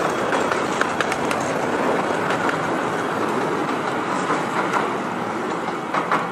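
Coaches of a 15-inch gauge miniature steam train rolling past over a level crossing, their wheels rumbling and clicking over the rail joints, with a couple of sharper clicks about six seconds in as the last coach crosses.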